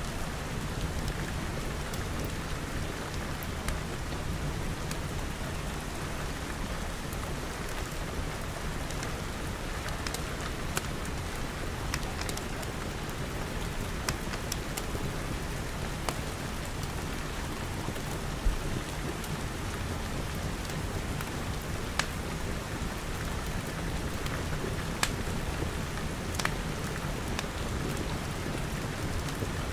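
Steady rain falling on glass walls and roof, with a low rumble underneath and scattered sharp pops from a crackling wood fire.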